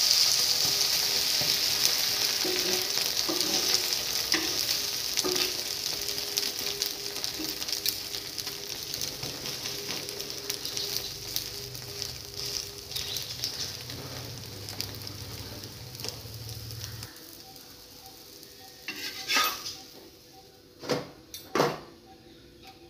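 Omelette sizzling on a hot tawa, loud at first and slowly dying down, with light scrapes of a steel spatula pressing it. Near the end, a few sharp clanks of the spatula and steel pan as the omelette is lifted off.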